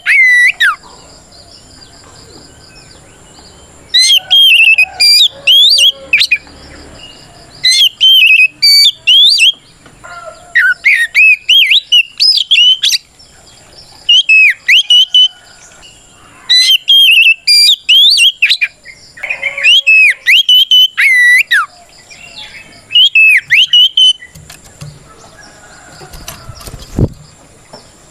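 Oriental magpie-robin singing its full, loud challenging song: rapid, varied whistled phrases that glide up and down, in bursts of one to three seconds with short pauses between, then falling quiet for the last few seconds.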